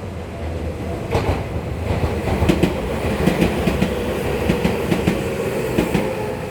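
Tokyu Ikegami Line commuter train passing close by. Wheels clack over the rail joints in a run of sharp clicks starting about a second in, over a steady rumble.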